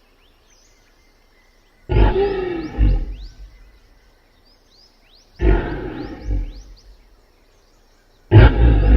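A big cat roaring three times, each roar a deep call with two pulses, a few seconds apart, with faint chirps behind.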